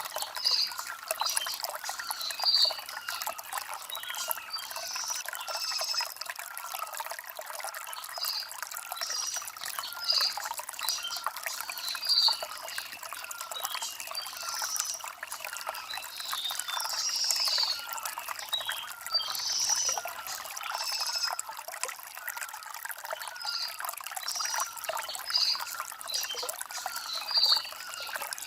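Shallow stream trickling and babbling over river stones, with many short, high chirps of small birds repeating over it.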